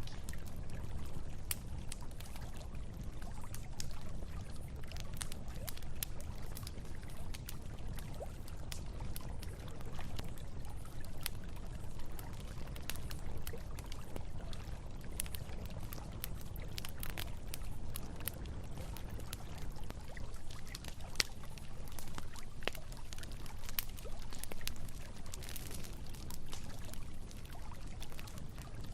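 Campfire crackling with scattered sharp pops, over the steady rush of a river.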